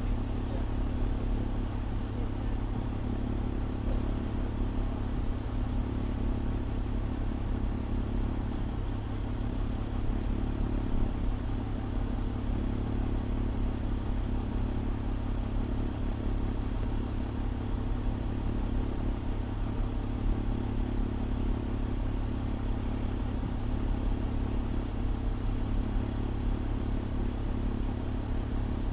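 Fire engine's diesel engine running steadily with a constant low rumble and no change in speed.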